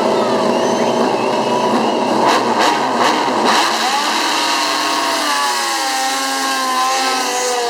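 Several 800cc four-stroke MotoGP racing motorcycles revving and accelerating away from practice starts on a wet track, with more than one engine heard at once, their pitch rising and falling. A few sharp cracks come about two to three seconds in.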